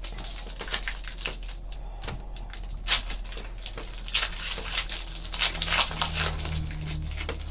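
Trading card packs and cards being handled: quick crinkling and rustling of foil wrappers and cards, with a sharper snap about three seconds in, over a low steady hum.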